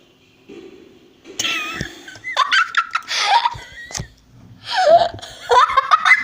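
High-pitched laughter and squeals in repeated bursts, starting a little over a second in after a quiet moment.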